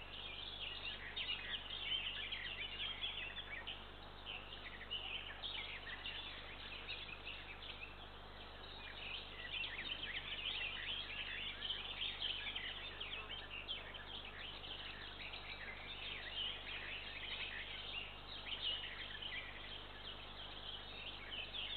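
Small birds chirping and singing continuously, many short notes overlapping, over a low steady hum.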